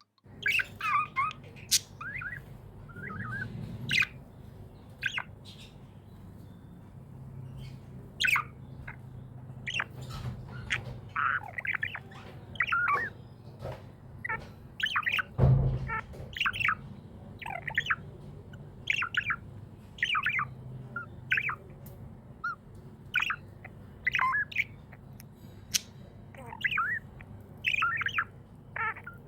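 Budgie chirps and short squawks, many brief calls in quick, irregular succession. A single low thump about halfway through.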